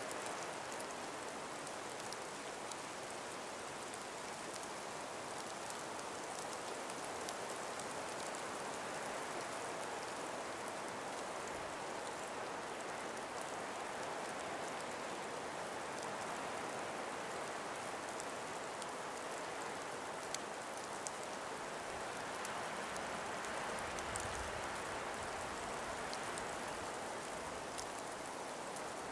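Steady soft hiss of a calm winter breeze through frost- and ice-laden forest trees, with faint scattered ticks and a brief low rumble about three-quarters of the way through.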